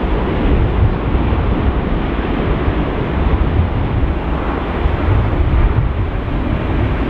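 Strong gusty wind buffeting the microphone: a loud, steady rush of noise, heaviest in the low rumble, swelling and easing slightly with the gusts.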